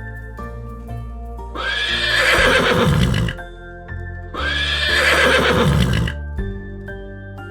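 A horse neighing twice, each whinny lasting nearly two seconds, over gentle children's background music.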